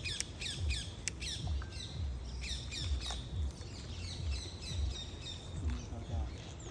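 Birds squawking: a run of short, sharp calls, each falling in pitch, repeated many times, over a repeating low thump.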